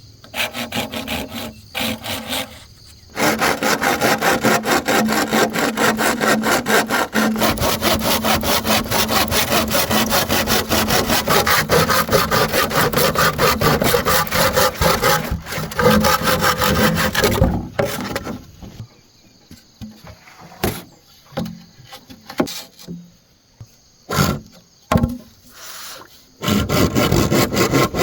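A saw cutting through bamboo in a long, steady run of fast strokes. It stops for a stretch of scattered knocks, then starts sawing again near the end.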